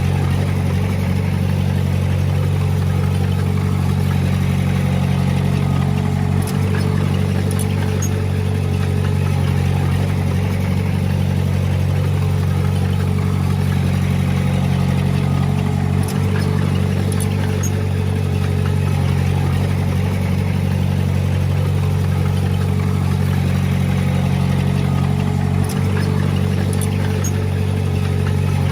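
Heavy diesel engine running steadily at a constant speed, with three brief clicks spread through it.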